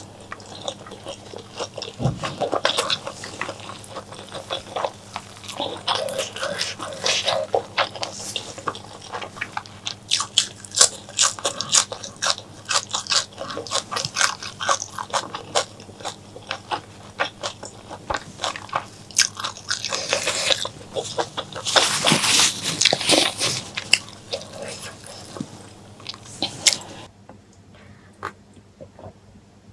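Close-miked eating of spicy mutton curry with honeycomb tripe: a dense run of wet biting, chewing and lip-smacking clicks, which thins out and grows quieter near the end.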